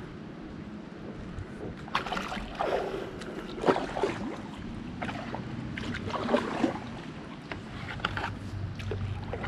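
Kayak paddle strokes in calm river water: a series of short splashes and drips every second or two as the blades dip and lift.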